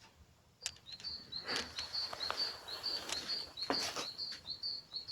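A high chirping call repeated about three times a second, starting under a second in, with a few soft knocks underneath.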